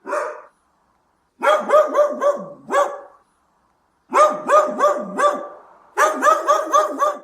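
Dog barking: one bark, then three quick runs of about five barks each, with short pauses between the runs.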